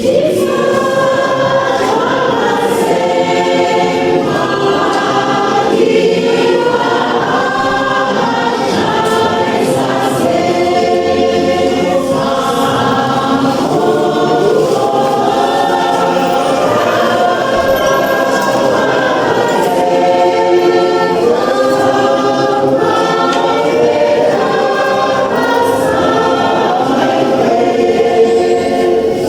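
A choir singing a gospel song, several voices holding sustained notes together.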